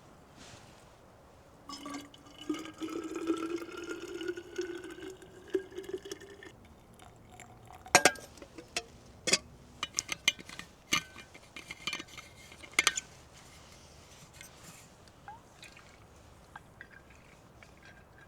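Liquid poured into a container, its pitch rising slowly as the container fills. About two seconds later comes a run of sharp clinks and knocks.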